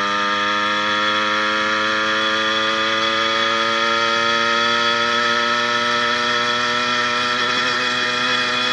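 80cc two-stroke motorized-bicycle engine running under load while riding, its pitch rising slowly as the revs climb. It is fitted with a new piston and an upgraded needle-bearing wrist pin.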